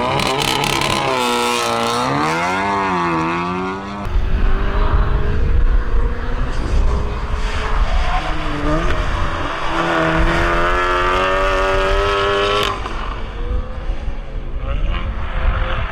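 Car engines revving and accelerating hard, in several clips cut together. The engine note rises and falls, and the sound changes abruptly about four seconds in and again near thirteen seconds.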